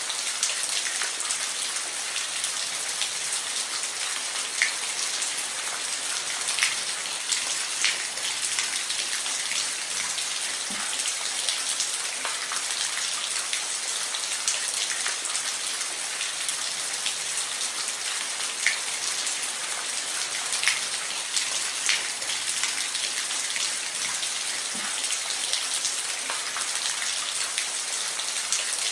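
Steady rain falling on a roof, a constant hiss with scattered louder individual drops ticking through it.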